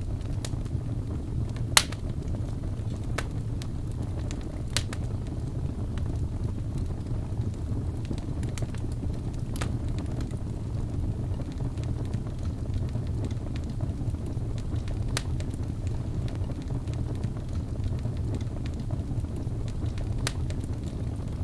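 Wood fire crackling: a steady low rumble with sharp pops every few seconds, the loudest about two seconds in.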